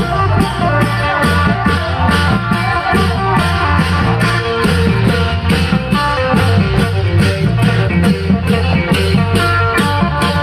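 Isan phin (plucked lute) playing a Phu Thai melody over a klong yao long-drum band, with a steady, driving drum beat.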